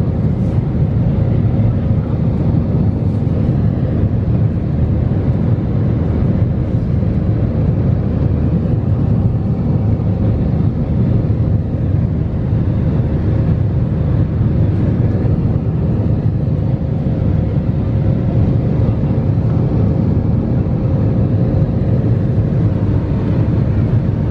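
Steady low rumble inside the cabin of an Airbus A320: engine and air noise, even and unbroken.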